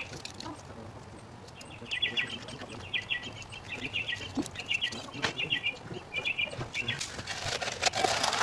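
A songbird chirping in quick chattering bursts, over light clicks and scrapes of hand work in the dirt; near the end a shovel blade scrapes into the soil.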